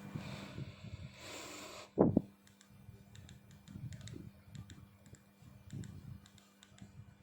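Handling noises on a hard surface: a rubbing hiss, then one loud knock about two seconds in, followed by scattered small light clicks, over a steady low hum.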